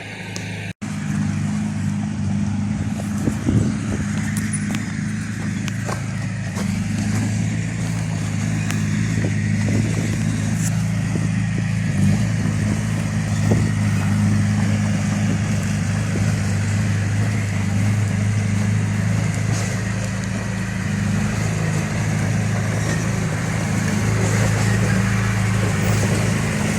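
Heavy diesel engine running steadily at an even pitch, with a few scattered knocks and clanks. The sound cuts out for an instant just under a second in.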